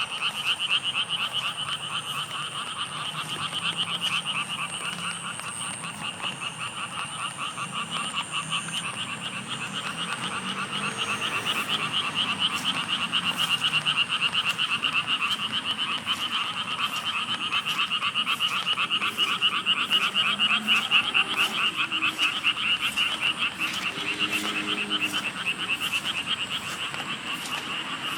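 A chorus of frogs calling in fast, continuous trills, swelling and fading slightly as it goes.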